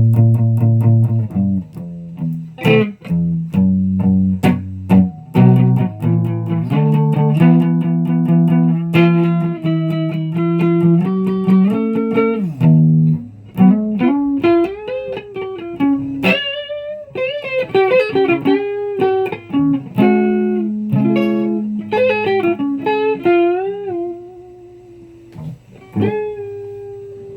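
Guitar playing: chords at first, then a single-note melody with string bends and vibrato, ending on a long held note that slowly fades.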